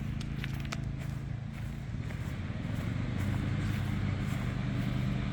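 Lawn mower engine running steadily at a distance, a low even hum whose pitch shifts slightly about two seconds in.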